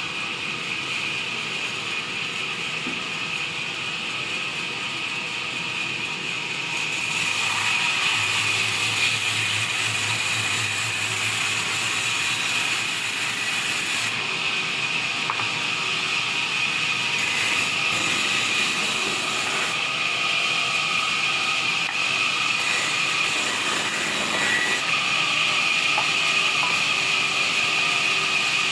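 Wood band saw running and cutting timber: a steady high whine over the sawing noise, getting louder about seven seconds in.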